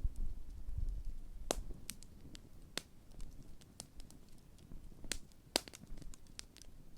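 Large open wood campfire burning, crackling with scattered sharp pops, the strongest about a second and a half in and twice around five seconds in, over a low rumble.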